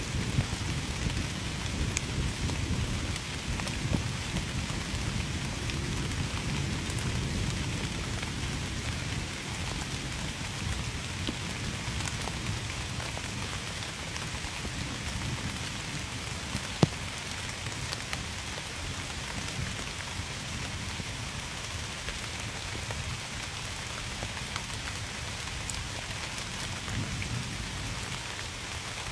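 Steady rain falling on a surface, with scattered louder individual drops, one sharp drop about 17 seconds in. A low rumble of thunder is heard at the start and fades away over the first half.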